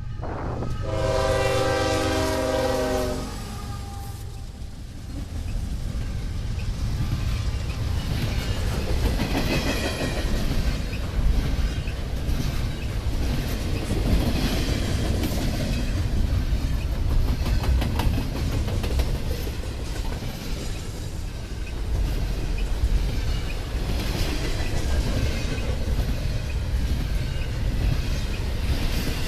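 Norfolk Southern train passing. A locomotive air horn sounds one chord for about two seconds near the start, then the train runs by with steady rumbling and clickety-clack of wheels on rail joints.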